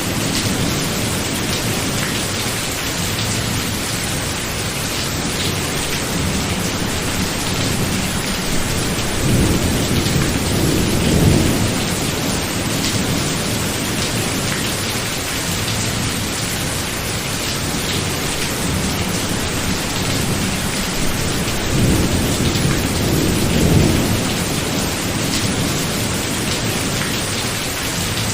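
Thunderstorm: steady heavy rain with rolling thunder, two long low rumbles swelling up, one about a third of the way in and another a little past the middle.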